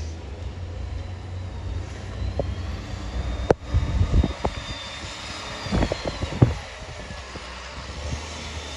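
Diesel engine of a heavy snow-clearing machine running with a steady low rumble, with a faint high whine, and a run of sharp clanks and knocks in the middle.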